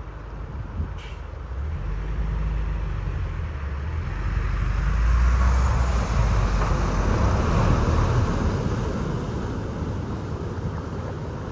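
A motor vehicle passing through floodwater on the road. Its low engine rumble and a rushing wash of water grow to their loudest about five to eight seconds in, then ease off.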